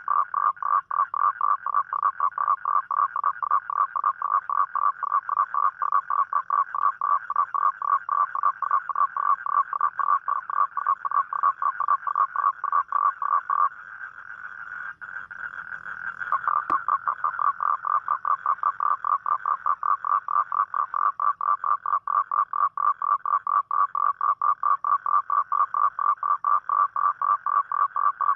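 Toad calling: a long, even train of rapid pulsed croaks at about five a second. The calling stops for about two seconds past the middle, then resumes, with a single sharp click just after it starts again.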